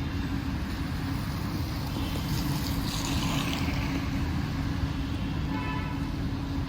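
Street traffic on a wet road: a steady low engine rumble and hum, with a vehicle hissing past on the wet surface about two to three seconds in.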